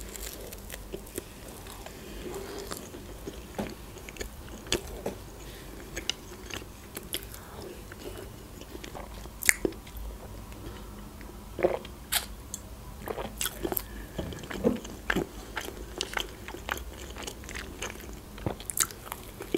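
Close-miked chewing and biting of Adjarian khachapuri, a cheese-filled bread, with irregular sharp mouth clicks and small crunches.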